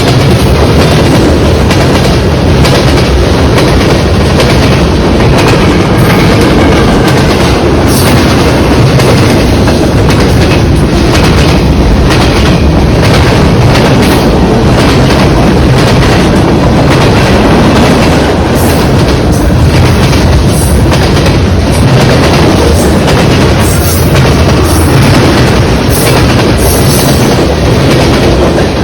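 A CN train passing at close range, loud and steady, its cars rolling by with the wheels clicking over the rail joints.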